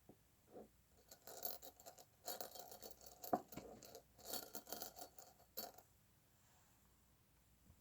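Small light objects being handled and shuffled: a run of faint clicks, rattles and rustles from about one second in until about six seconds, with one sharper tap a little past the three-second mark.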